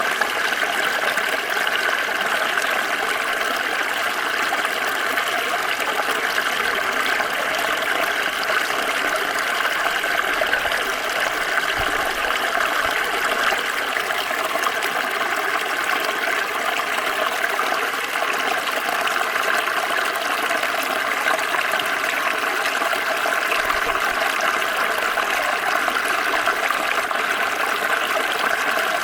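Small stream flowing steadily, water running and trickling over stones.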